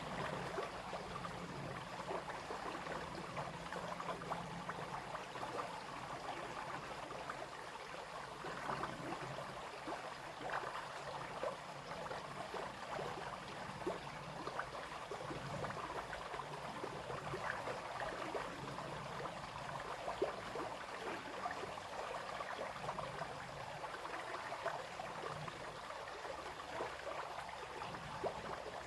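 Small brook flowing and babbling steadily, with many small splashes and trickles of water over stones.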